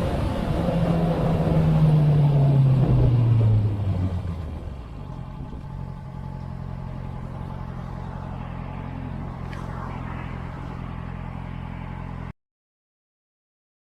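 A vehicle engine whose pitch falls over about three seconds as it slows, then settles into a steady drone. It cuts off abruptly near the end.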